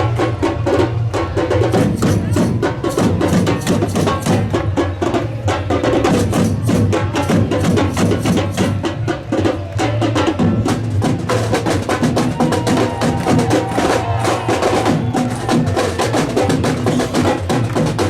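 Loud batucada drum ensemble playing a fast samba rhythm: dense, rapid strikes over a steady deep drum pulse.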